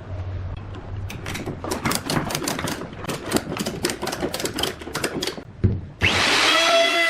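A quick run of sharp clicks or taps, about four or five a second. About six seconds in, a motor starts abruptly with a steady whine.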